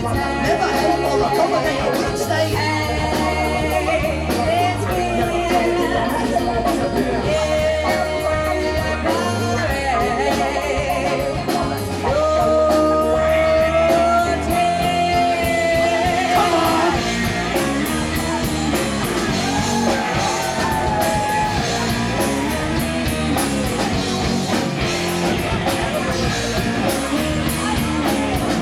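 Live rock band playing a passage without lyrics: drums, bass and guitars, with a lead melody line that holds long notes and bends in pitch.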